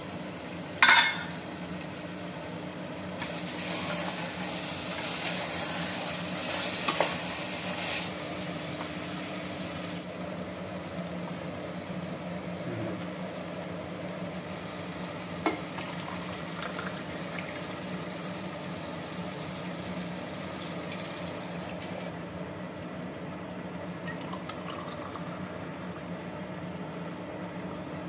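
Mutton masala sizzling in a stainless steel pot as it is stirred with a wooden spatula, louder from about three to eight seconds in. A sharp metallic clink comes about a second in, a few light knocks follow later, and a steady low hum runs underneath.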